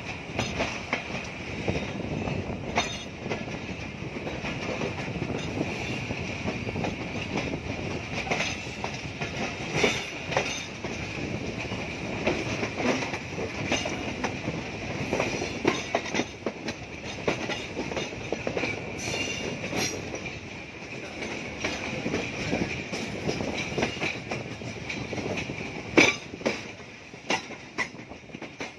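Passenger train running, heard from an open coach window: steady rolling noise of steel wheels on rail with a steady high whine, broken by short clatters over rail joints and points. The loudest clack comes about 26 seconds in.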